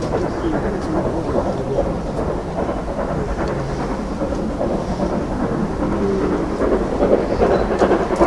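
A train passing close by, heard as a loud, continuous rumble that grows rattlier near the end.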